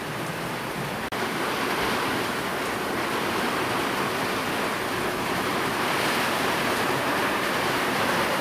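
Steady rain falling, an even hiss, with a brief dropout in the sound about a second in.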